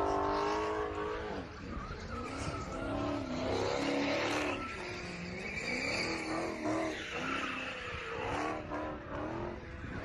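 Car tyres squealing as a car spins donuts on the pavement, the screech wavering up and down in pitch, with the engine revving under it.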